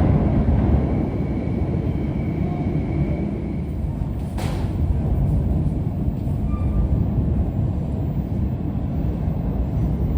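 New York City subway train running, a steady low rumble, with a single sharp click about four seconds in.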